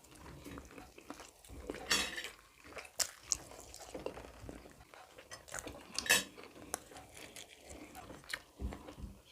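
Cutlery clinking and scraping against plates during a meal, with a few sharper clinks about two, three and six seconds in.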